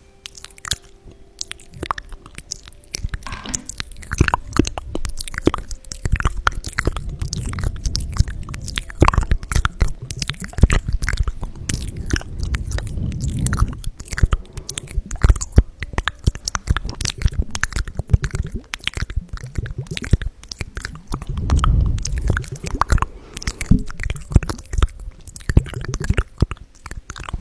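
Close-miked ASMR handling of small glass ampoules: a dense run of crisp clicks and crackles with soft, wet squishing.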